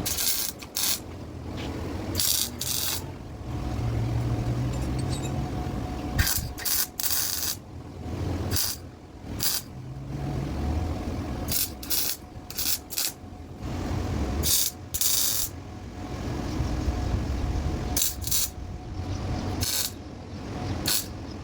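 CO2 (MIG) welder laying short stitch welds: many irregular bursts of crackling arc, each under a second, stopping and starting over a low hum.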